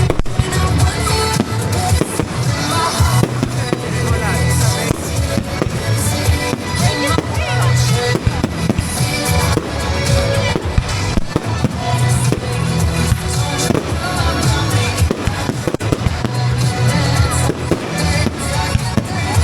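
Fireworks going off: many bangs and crackling bursts in quick succession, over music with a steady beat.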